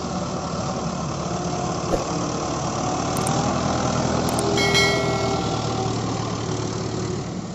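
Mahindra Arjun tractor's diesel engine running steadily, with a brief high tone about halfway through.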